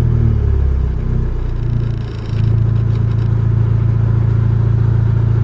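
Fiat Abarth's engine winding down from a rev, its pitch wavering as it settles, then idling steadily from about two seconds in.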